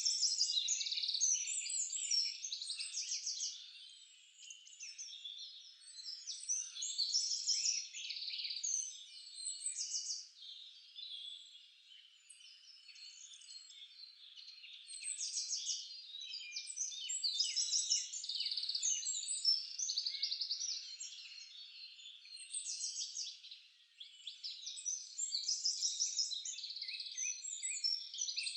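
Several songbirds singing and chirping at once: a dense chorus of short high notes and rapid trills that swells and fades every few seconds.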